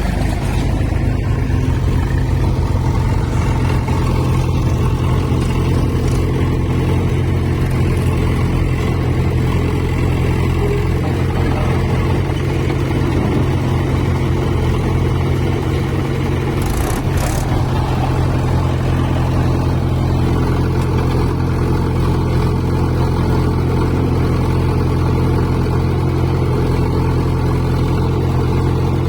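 Diesel engine running steadily at an even speed, with a brief higher rustle about two-thirds of the way through.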